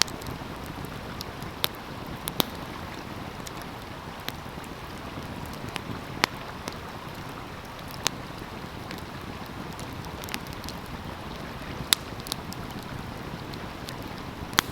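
Wood fire crackling, with scattered sharp irregular pops, over the steady rush of a flowing stream.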